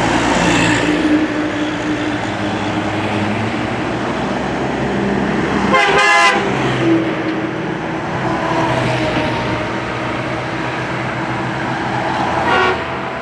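Heavy trucks passing close by at speed, a steady engine and road drone, with a loud blast of a vehicle horn about six seconds in and a shorter toot near the end.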